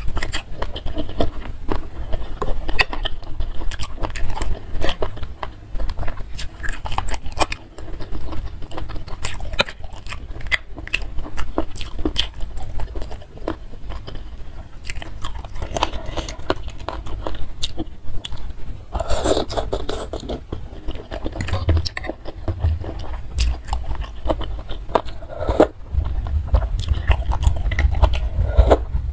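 Close-miked chewing and wet mouth sounds of someone eating spicy instant noodles in soup with meatballs and chicken feet: steady smacking and biting clicks, with a longer noisy stretch about two-thirds of the way through.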